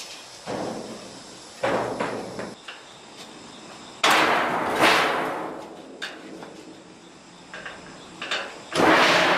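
Heavy hammer blows on steel truck axle parts: about five loud, irregularly spaced strikes, the heaviest about four seconds in and again near the end.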